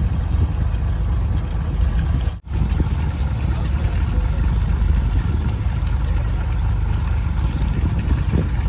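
Fishing boat's engine running with a steady low rumble, broken by a momentary dropout about two and a half seconds in.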